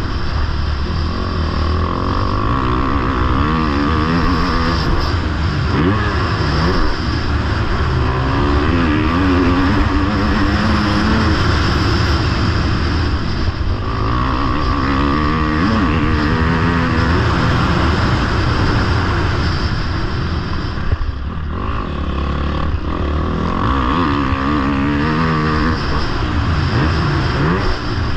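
Motocross bike engine running hard, its pitch repeatedly rising and falling with the throttle, easing off briefly about three-quarters of the way through.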